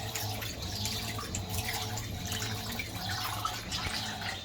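Fisher & Paykel MW511 top-loading washing machine running mid-cycle: water splashing and trickling in the tub over a steady low hum.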